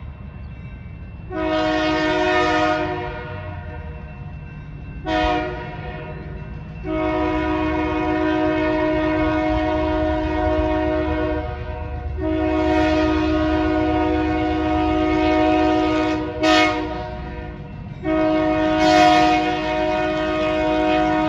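Diesel locomotive air horn sounding a chord of several steady tones in a series of blasts: four long ones with two short ones between them. Underneath is the continuous low rumble of the passing locomotives.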